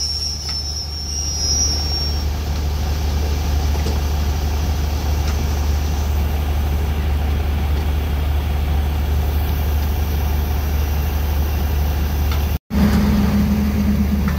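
Diesel train running, heard from on board: a steady low engine rumble with track noise. A high wheel squeal fades out in the first couple of seconds. The sound drops out for an instant near the end, and a steadier low engine hum follows.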